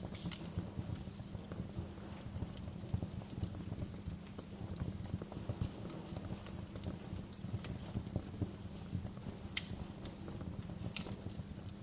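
Wood fire crackling in a fireplace: a dense, steady low crackle of small irregular pops, with two sharper snaps near the end.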